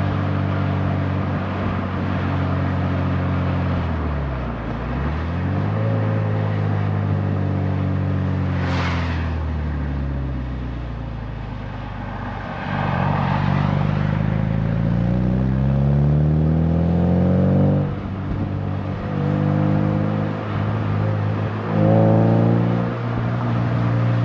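2024 Toyota GR86's 2.4-litre flat-four engine revving up and down repeatedly as the car is drifted, the pitch dipping and climbing several times. About nine seconds in comes a short screech of tyres, and a few seconds later a rush of tyre noise.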